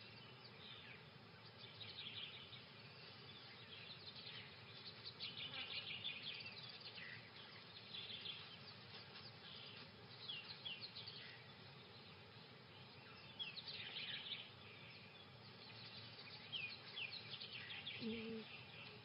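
Faint outdoor ambience of small birds chirping, with short high chirps scattered throughout over a low, even background hiss. Near the end comes a brief low call.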